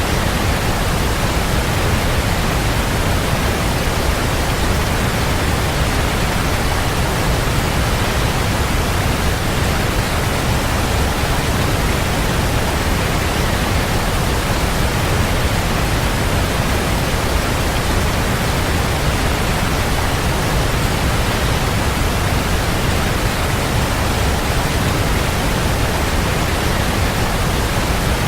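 Waterfall, a steady, unbroken rush of falling water, heaviest in the low end.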